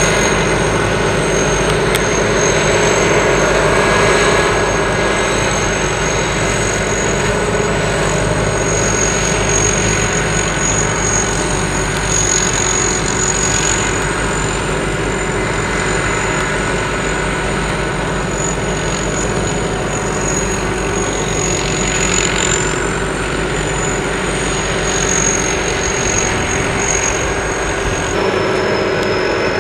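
Sakpattana SS-200 mini combine harvester running steadily, its engine and machinery giving a continuous hum with a high steady whine. Near the end the low hum drops away and the whine shifts lower.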